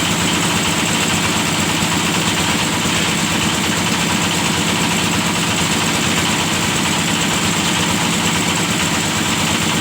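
The engine of a hydraulic well-drilling rig running steadily, with no change in speed.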